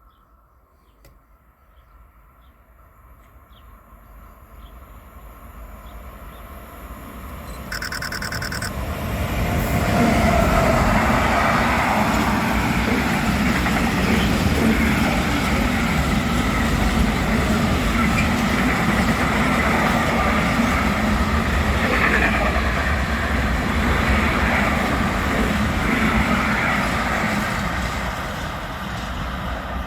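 A train approaching and passing close by on the line, swelling over about ten seconds into a loud, steady rumble of wheels on rail that eases slightly near the end. A short high-pitched tone sounds for about a second, eight seconds in.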